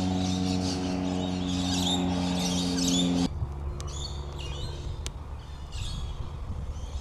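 Small birds chirping and twittering steadily. A steady low hum runs beneath them and cuts off abruptly about three seconds in.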